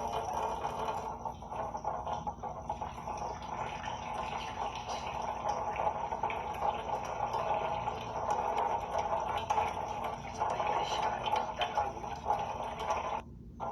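Water running and splashing steadily, breaking off briefly near the end.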